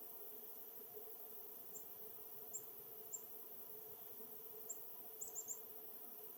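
A small songbird giving short, very high chip calls: seven sharp notes spaced irregularly, with three in quick succession about five seconds in, over a faint steady hum.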